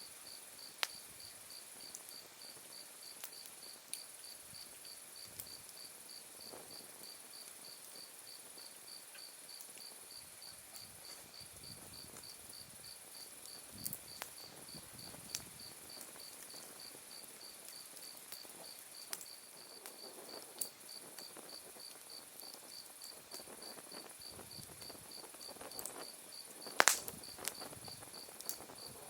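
Autumn night insects chirping: a steady pulsed chirp at about four a second over a continuous higher trill. Burning firewood pops with scattered sharp cracks, one much louder crack near the end.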